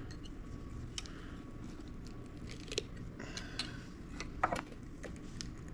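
A knife scraping and cutting at silicone sealant packed inside a water pump, giving irregular small scrapes and clicks; the sharpest comes about four and a half seconds in.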